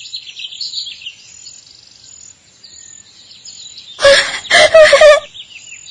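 Background birdsong: small birds chirping and tweeting continuously in quick high notes. About four seconds in, a loud, short, voice-like cry lasting about a second breaks in, in three quick parts.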